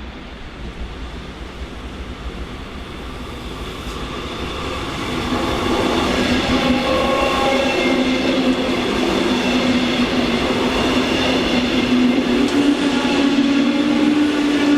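A train approaching, growing louder over about five seconds, then running loud and steady with several held tones over the rumble of the wheels.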